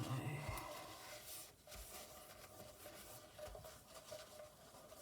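Kitchen roll rubbing butter spread around the inside of a non-stick cake tin to grease it: faint, scratchy rubbing, with a louder bump at the very start.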